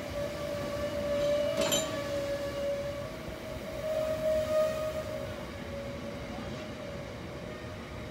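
Train running past with a steady, slightly wavering high whine, and a sharp knock about one and a half seconds in.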